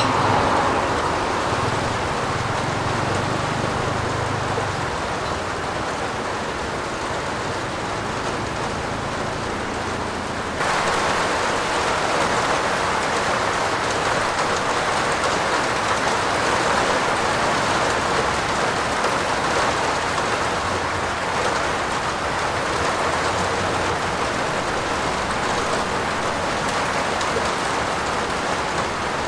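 Steady, dense rain falling on a roof, a continuous hiss of drops that gets abruptly louder about ten seconds in.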